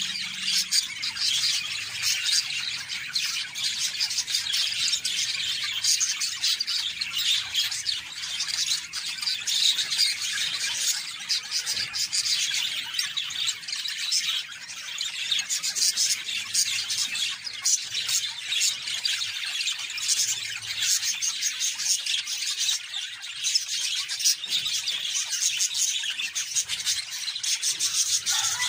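Budgerigars chirping and chattering continuously, a dense flurry of rapid high-pitched calls.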